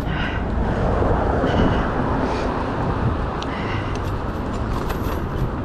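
Steady rush of wind and city traffic picked up by a chest-mounted action camera while riding a bicycle, heaviest in the low end and without a break.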